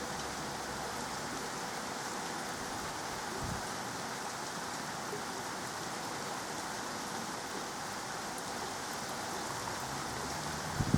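Steady rain falling during a thunderstorm, an even hiss throughout. A faint low thump about three and a half seconds in, and a louder low thump right at the end.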